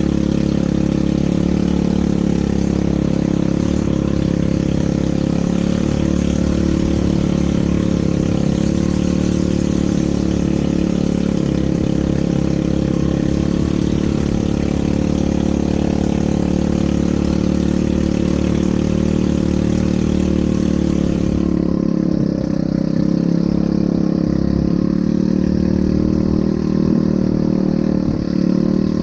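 ATV engine running steadily under way, with a constant hum and noise throughout.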